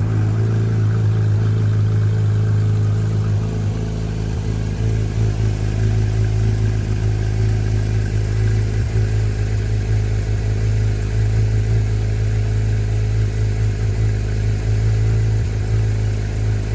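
Porsche 991.1 GT3 RS's 4.0-litre naturally aspirated flat-six idling steadily after a cold start, with no revving.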